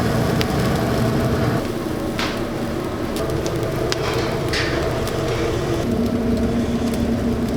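Steady machine hum with a few sharp clicks and light knocks; a low steady tone joins in near the end.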